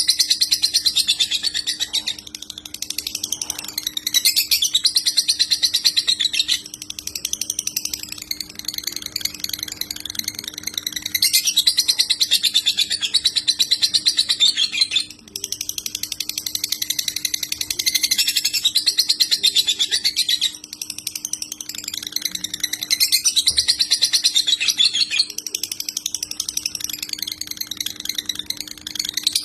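Lovebird singing a long, very fast, high chattering trill in the 'konslet' style, broken by brief pauses a few times, under a steady low hum.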